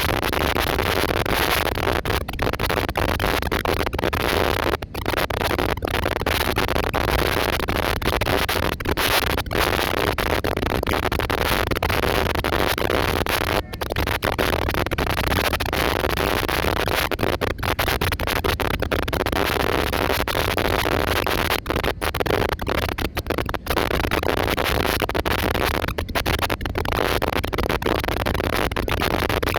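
Steady loud rushing noise of an airliner in flight, broken by many brief dropouts.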